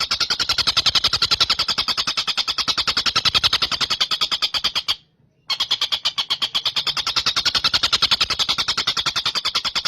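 Tengkek buto kingfisher calling in a fast, continuous rattling trill of about ten high notes a second. It stops for half a second about five seconds in, then resumes.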